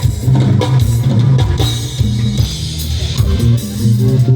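Live band playing on stage: electric guitar, bass guitar and drum kit, with a heavy bass line, during a sound check.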